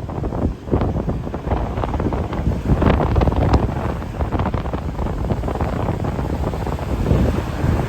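Strong gusting wind buffeting the microphone in a loud, rumbling rush that swells and eases, with heavy surf from big waves mixed in beneath it.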